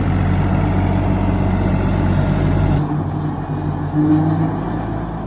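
John Deere tractor's diesel engine running steadily, with a shift in its sound about three seconds in.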